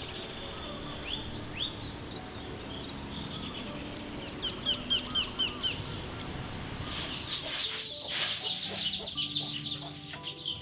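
Birds chirping outdoors over a steady high insect drone: a few single rising chirps, then a quick run of about six, with busier chirping and a hiss in the last few seconds.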